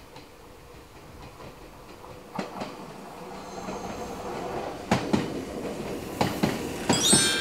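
Meitetsu 3300 series electric train running into the station alongside the platform. Its rumble grows louder as it comes close, with a run of sharp wheel clacks over the rail joints in the second half.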